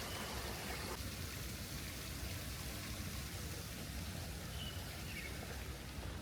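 Steady rain falling, an even hiss, with a few faint short high chirps about three-quarters of the way through.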